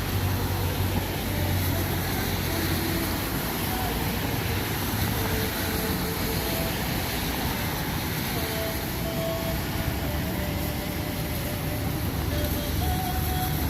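Steady noise of vehicle traffic on a rain-soaked road, a low rumble under an even hiss.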